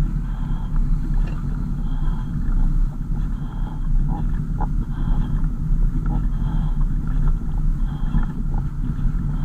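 A car driving, with steady low engine and road rumble. A faint short high beep repeats about once a second throughout.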